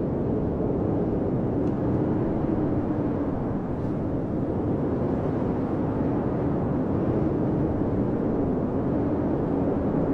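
Blizzard wind blowing steadily, with a low howl that slowly wavers up and down in pitch.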